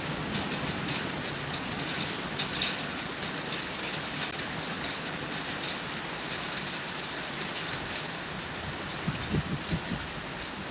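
Heavy rain falling steadily, with sharp drop ticks on a surface, and a few short low thumps near the end.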